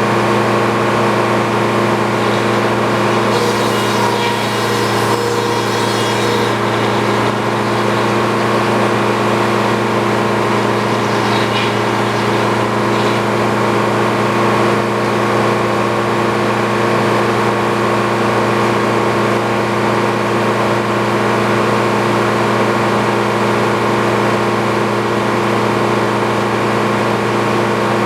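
A sawmill's engine running steadily, with a brief hiss rising over it about three seconds in.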